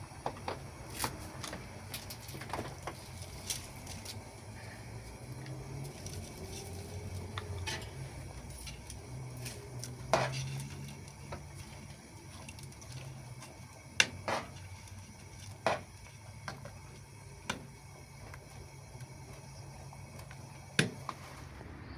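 Kitchen clatter: irregular sharp clinks and knocks of pots, dishes and utensils being handled, a dozen or so strikes spread apart, over a low steady hum.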